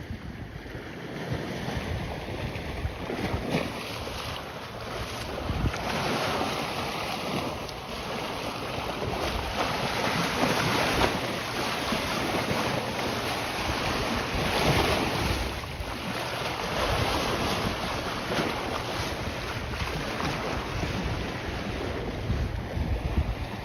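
Waves washing onto the shore in slow surges every few seconds, with wind buffeting the microphone.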